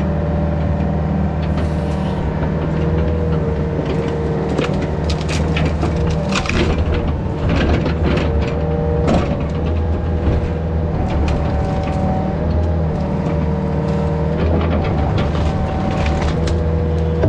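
Yanmar VIO50 mini excavator working. Its diesel engine runs steadily under a hydraulic whine that steps up and down in pitch, with repeated sharp cracks and snaps of wood breaking, thickest through the middle.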